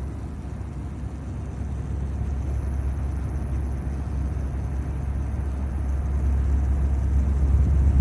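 Holmes Blizzard 7-inch table fan running, its airflow buffeting the microphone as a low, steady rumble that grows gradually louder.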